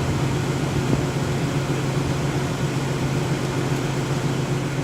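A car's air-conditioning fan blowing steadily, heard from inside the cabin, over a constant low hum.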